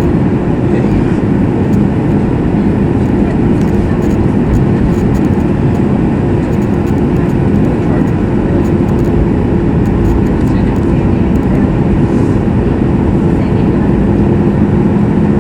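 Steady cabin noise of a Boeing 737 MAX 8 airliner: the rush of air and the drone of its CFM LEAP-1B engines, with two steady humming tones.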